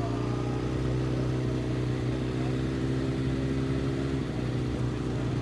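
Sportbike engine running at steady revs under an even hiss of noise, with the pitch shifting slightly about four seconds in.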